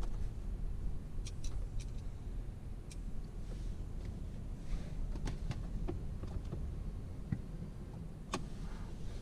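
Scattered light clicks and taps of plastic trim and screws being handled during reassembly of a car's instrument cluster, over a steady low rumble.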